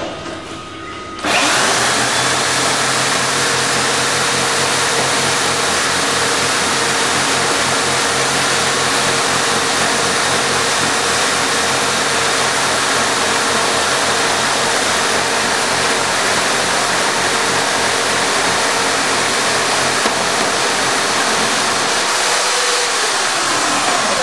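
Homemade slot-milling machine driven by four electric hand drills switching on about a second in and running steadily as it mills slots, a loud whirring with a steady hum. Near the end the hum's pitch drops.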